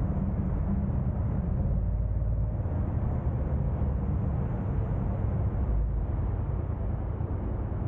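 A car driving on a city street: steady low rumble of engine and tyre noise with no sudden events.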